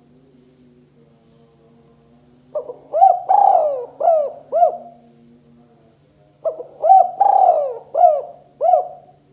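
Spotted dove (tekukur) cooing: two phrases about four seconds apart, each a quick run of about five coos, in the 'kuk 2' style. Faint steady hum beneath.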